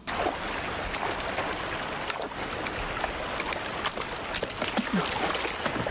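A river rushing steadily: an even roar of running water that cuts in abruptly, with a few faint clicks and knocks over it.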